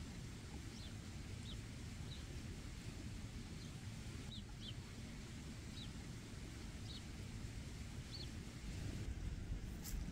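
A bird chirping: a series of short, high chirps, about one or two a second, over a steady low outdoor rumble.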